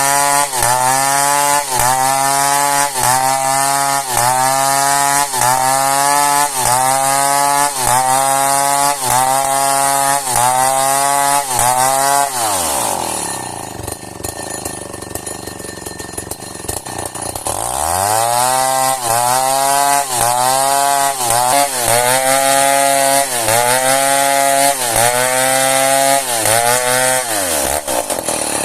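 Chainsaw cutting a hard, seasoned merbau log, its engine pitch sagging and recovering about once a second as the chain bites under load. About halfway through the revs drop away and the saw runs low for a few seconds, then it revs back up and cuts again, falling off near the end.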